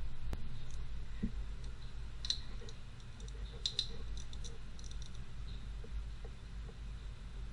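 Scattered light clicks and small taps, a few close together about two and three and a half seconds in, over a steady low hum.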